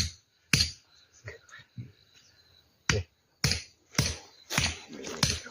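Sharp hammering knocks on an axe head, driving the broken stub of the wooden handle out of the eye: two blows, a pause of about two seconds, then five blows in quick succession about half a second apart.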